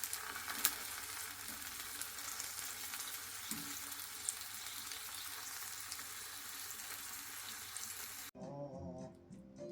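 Food sizzling and crackling as it pan-fries in oil in a frying pan, with small pops. About eight seconds in it cuts off suddenly and music takes over.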